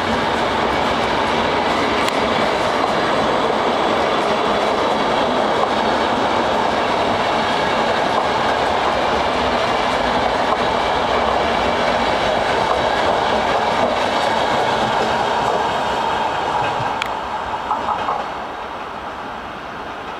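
Train passing on the rails: a loud, steady running noise of wheels on track that drops off about eighteen seconds in as it moves away.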